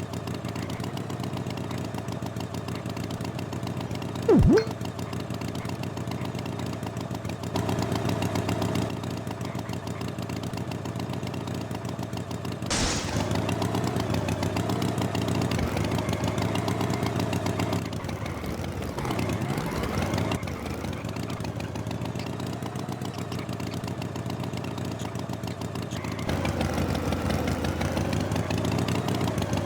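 An engine running steadily, with a short loud falling swoop about four seconds in, a jump in loudness about halfway through, and dips in pitch a little later.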